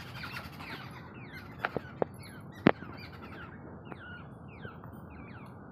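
Small bird chirping over and over in short, high, falling chirps that come faster in the second half, with a few sharp clicks, the loudest just under three seconds in.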